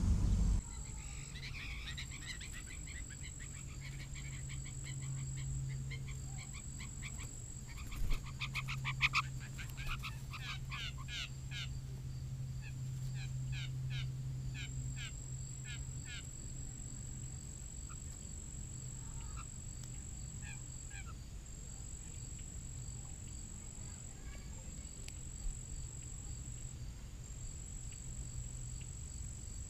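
Bird calls: short, harsh, honking notes in quick runs through the first half, with a few more scattered after. Underneath are a steady low hum and a faint, steady high whine.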